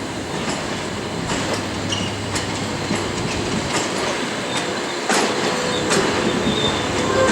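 Passenger train rolling slowly out of the station: its wheels clack over the rail joints at irregular intervals over a steady rumble, with a few brief high wheel squeals.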